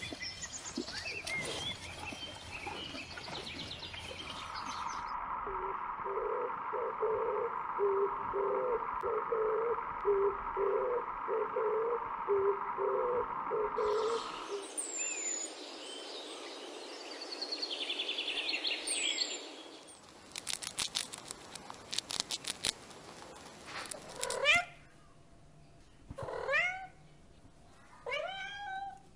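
A run of different sounds that change every few seconds; over the last few seconds a kitten meows several times in short calls.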